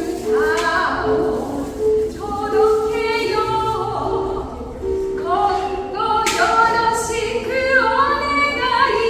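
Music: a woman's voice singing a slow melody that glides between notes, over long-held lower tones that plausibly come from the lyre.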